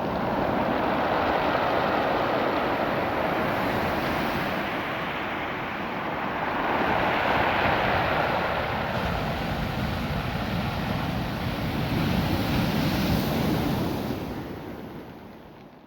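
Ocean surf washing over a beach of small rounded cobble stones, a steady rushing hiss that swells and eases about three times and fades near the end.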